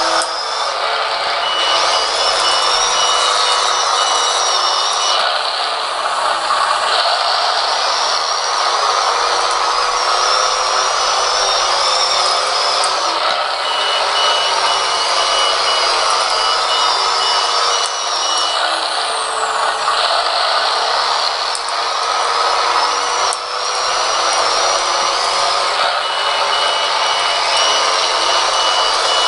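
Benedini micro sound module playing a simulated diesel dozer engine through a tiny speaker in an RC Caterpillar D5, running steadily as the machine works hard ground with its ripper. A high-pitched reverse beeper sounds three times in runs of a few seconds as the dozer backs up.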